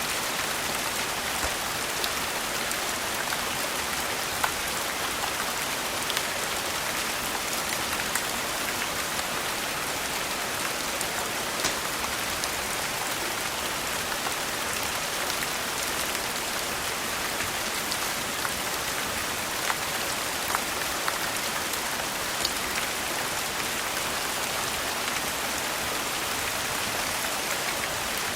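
Steady rain, an even hiss, with scattered sharp clicks and pops at irregular intervals.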